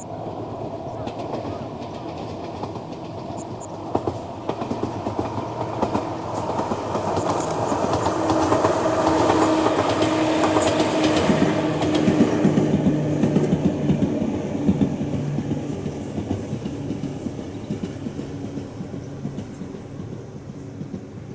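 Ohmi Railway 800-series electric train set passing, its wheels clacking over the rail joints. It grows louder to a peak about halfway through, with a steady humming tone under the clatter, then fades away.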